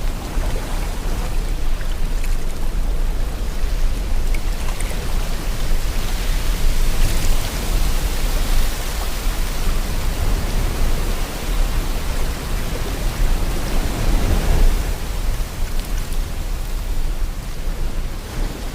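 Sea waves washing in with wind: a steady rushing noise, heavy in the low end, that swells twice, about seven and about fourteen seconds in.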